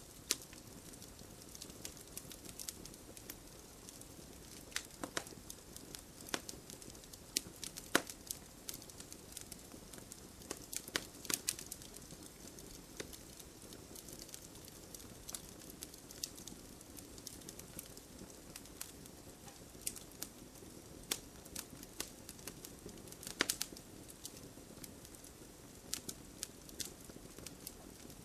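Wood fire crackling: a soft steady hiss under frequent irregular pops and snaps, a few of them sharper and louder.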